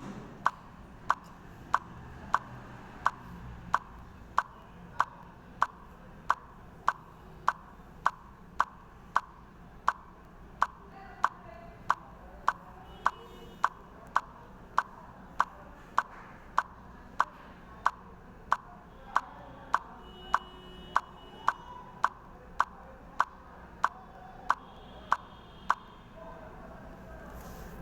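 A clock ticking steadily, a little under two ticks a second, over a faint background hiss; the ticking stops shortly before the end.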